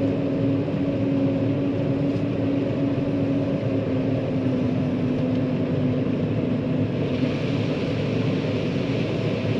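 John Deere 9500 combine running steadily while harvesting corn: a constant machine drone with a steady hum, and a little more hiss in the last couple of seconds.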